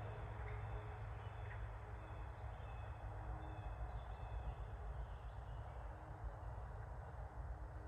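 Outdoor wildlife ambience: a steady background hiss over a low rumble, with faint distant bird calls, a few short chirps and some thin high notes.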